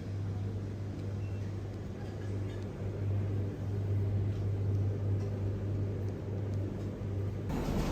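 A vehicle running with a steady low drone and road noise. Near the end the sound suddenly turns fuller and brighter as something else comes in.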